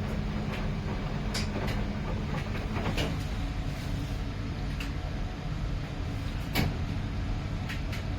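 2011 Miele PW 6080 commercial washing machine running: a steady motor hum and drum rumble with scattered sharp knocks, the loudest about six and a half seconds in.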